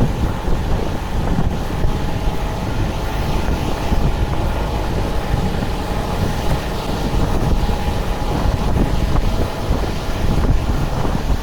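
Wind buffeting the microphone of a camera mounted on a moving road bike: a loud, gusty rumble with a steady rushing noise over it.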